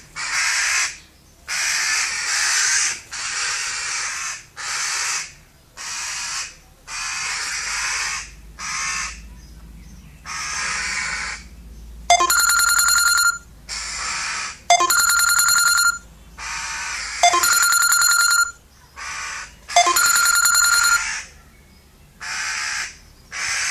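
Harsh, crow-like cawing calls repeated again and again, each lasting about half a second to a second. From about halfway through, a steadier ringing, pitched call comes four times at even intervals, about two and a half seconds apart.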